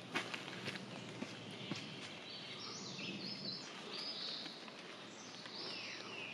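Several birds singing and calling at once: overlapping chirps and short falling whistles over a steady outdoor hiss. A couple of sharp clicks come in the first two seconds.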